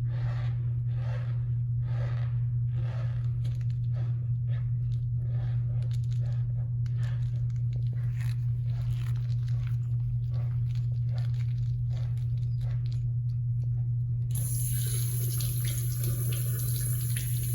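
Cornstarch being squeezed in the hand, giving a run of short crunchy squeaks about twice a second, over a steady low hum. About fourteen seconds in, a steady hiss like running tap water comes in.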